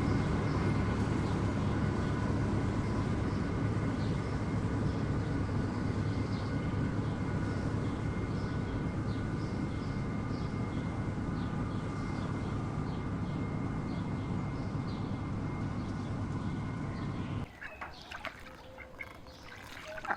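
A steady mechanical hum with a few faint high chirps over it cuts off abruptly about three seconds before the end. A much quieter stretch of scattered clicks and short calls follows.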